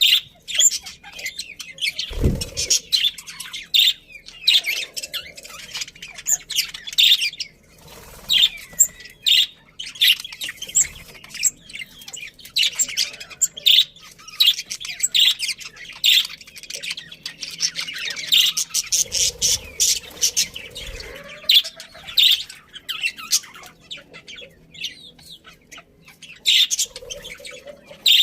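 A flock of budgerigars chirping and chattering continuously in quick, overlapping calls, with a short low thump about two seconds in.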